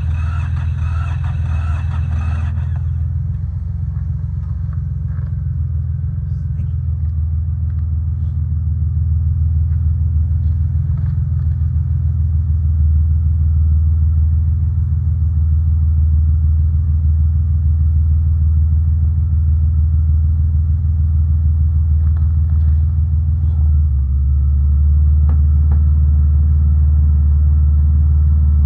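Yanmar YM146 compact tractor's diesel engine running steadily. Its note slowly grows louder, then about three-quarters of the way through it drops a little in pitch and gets louder.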